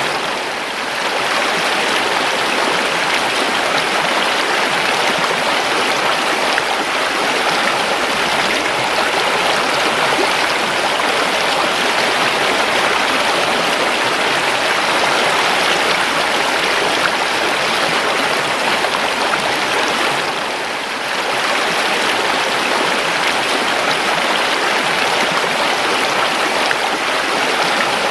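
A river or stream flowing: a steady rush of running water, dipping briefly twice.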